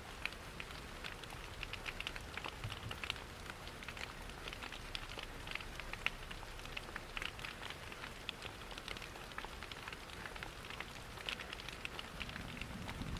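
Rain pattering with the irregular snaps and ticks of a crackling wood fire, over a steady rush of falling water. A low rumble swells a little near the end.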